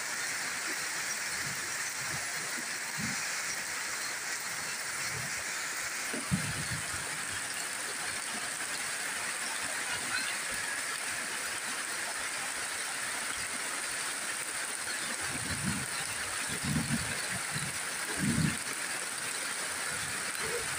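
Steady rain falling on banana leaves and a roof, a constant hiss, with a few dull low thumps, most of them near the end.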